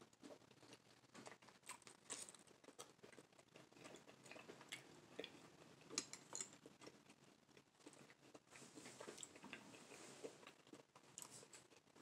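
Quiet close-up chewing of a mouthful of chicken bacon ranch taco, with many small irregular wet mouth clicks and smacks.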